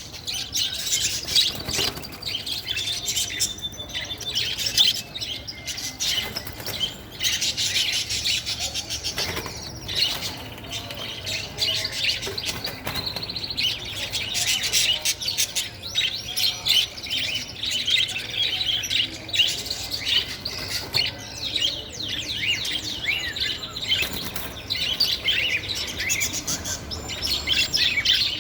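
Many small birds chirping and calling over one another without a break.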